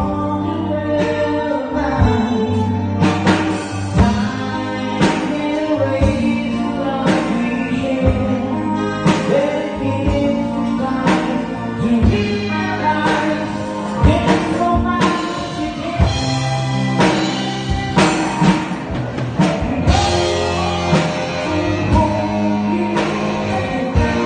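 Live band playing an amplified rock-style song: drum kit keeping a steady beat of about one stroke a second under guitar and a singing voice.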